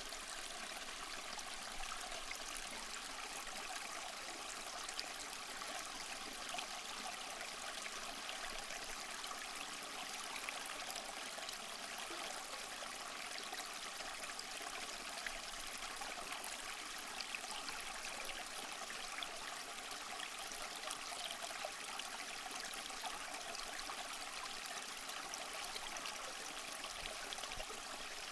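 Small waterfall splashing and trickling steadily over mossy rocks, an even hiss of falling water with fine splashes throughout.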